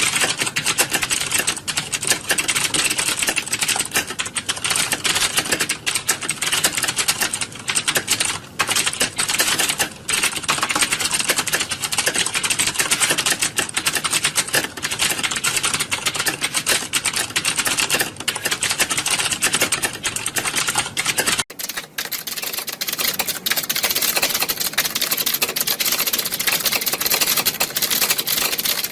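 Many computer keyboards being typed on at once, a dense, unbroken clatter of overlapping key clicks. About three-quarters of the way through the sound changes abruptly and becomes thinner.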